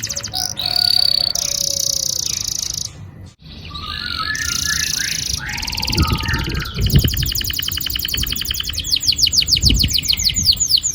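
Domestic canary singing a long song of rolls and rapid trills: quick repeated downward-sweeping notes, buzzy passages and fast rattling trills, with a brief break about three seconds in.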